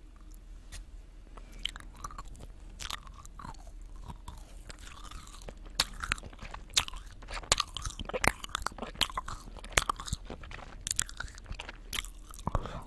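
Gummy jelly candy being bitten and chewed right at the microphone, a run of sticky mouth clicks that grow louder and come faster from about halfway through.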